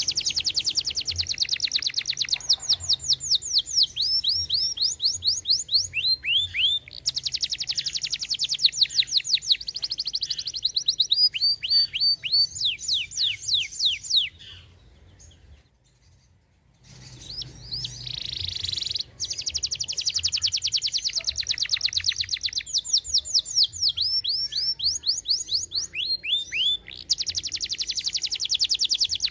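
Domestic canary singing continuously: long rapid trills and rolling runs of quick notes sweeping down in pitch. The song breaks off for about two seconds midway, then resumes.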